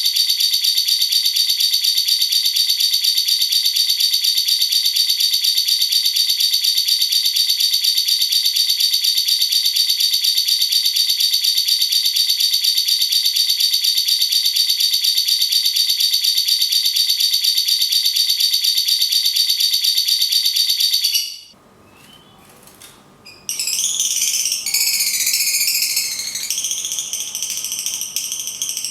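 Lovebird giving its long 'ngekek' trill: a high, very fast, even rattling chatter held without a break for about twenty seconds, then cut off. After a short pause, a different bird starts a varied, warbling chirpy song with rising and falling notes.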